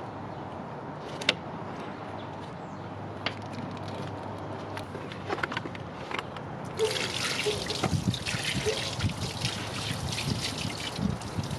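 Water poured over a car's engine bay, trickling and dripping onto the parts to rinse off spilled coolant. A few light clicks come early, and about seven seconds in the pour becomes a heavier, louder splashing.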